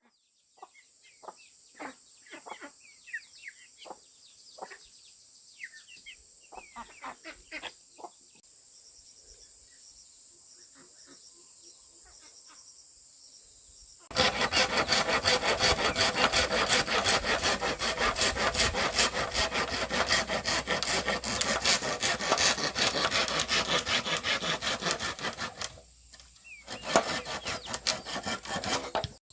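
Birds chirping over a steady high insect hum, then, about halfway in, a saw cutting with loud rapid strokes, which stops briefly near the end and starts again.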